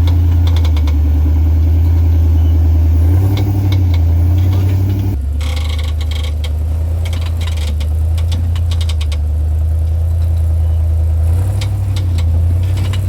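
Off-road vehicle engine running at low, steady revs, with its note shifting slightly a couple of times and scattered clicks and rattles over it.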